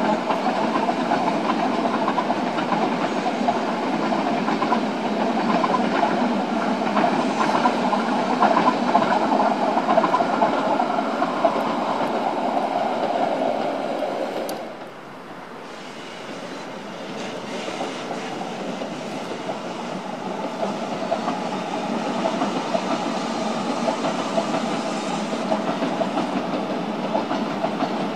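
Rhaetian Railway metre-gauge trains hauled by electric locomotives running over the tracks, a steady rumble of wheels on rail. About halfway the sound drops suddenly and is quieter, then builds again as the next train approaches.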